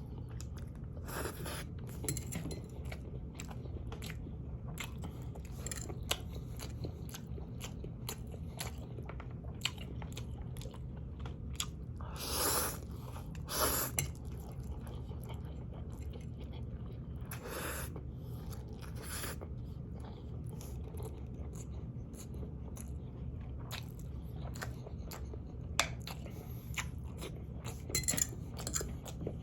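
Close-up chewing and biting of spicy ramen noodles and sausage pieces, with a few louder half-second noisy sounds and quick clicks near the end, over a steady low hum.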